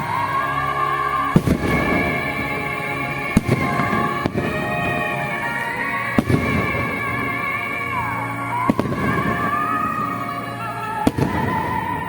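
Aerial fireworks shells bursting with sharp bangs, about six over the stretch, over loud accompanying music with a sustained melody.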